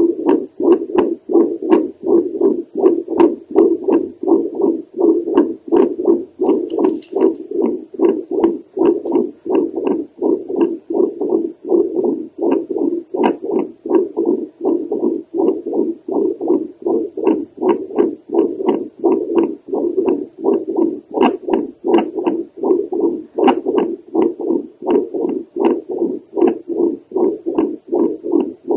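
Home doppler picking up a woman's heartbeat over the aortic valve: a fast, even run of pulsing whooshes, one with each beat, many topped by a sharp click.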